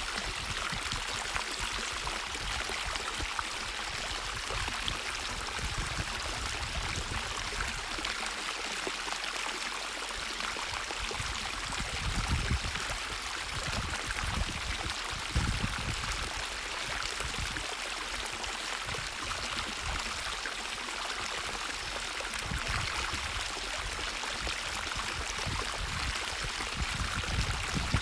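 Water in a natural stream flowing and rushing steadily, with a few brief low rumbles about midway.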